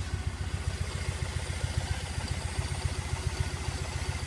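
2013 Triumph motorcycle engine idling steadily with an even low pulsing, running on fresh oil just after an oil change.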